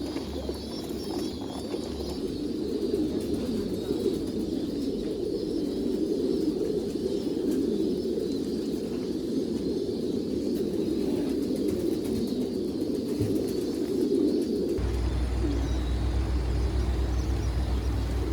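Many pigeons cooing at once, a continuous overlapping cooing from a flock. A low hum comes in near the end.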